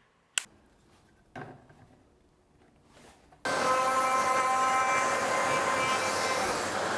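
A couple of handling clicks and knocks, then a palm router comes in suddenly about halfway through and runs loud and steady with a whine of several fixed tones as it routes a pocket in the insert blank.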